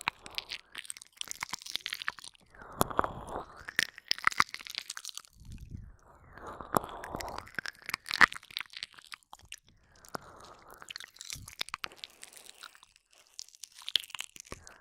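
Close-up ASMR mouth sounds: wet licking, smacking and clicking, as in ear licking and nibbling, coming in bursts every few seconds with soft breathy noise between.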